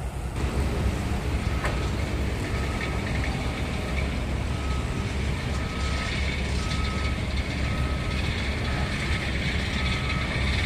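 Reversing alarm on heavy construction machinery beeping steadily, a short mid-pitched beep about once a second, over the continuous low rumble of its engine.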